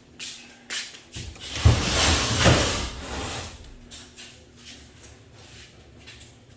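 A scraping, rattling clatter of garage door hardware being moved, starting about a second in and lasting about two seconds, with two louder knocks inside it.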